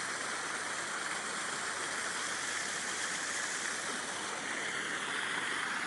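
Steady rushing of churning water from a lake aerator pump, even and unbroken.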